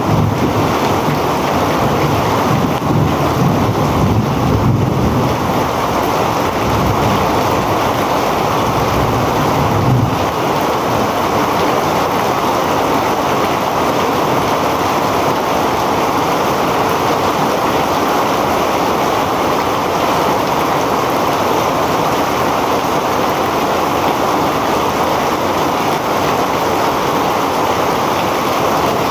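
Heavy rain pouring down in a steady, dense hiss. A low rumble sits underneath for the first ten seconds or so, then drops away.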